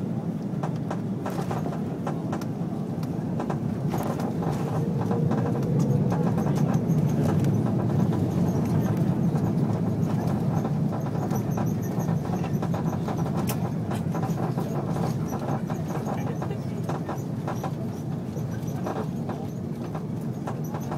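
Cabin noise inside an Airbus A330-300 airliner: a steady engine and airflow rumble with many small rattles and knocks from the cabin fittings. The rumble swells a few seconds in, then slowly eases.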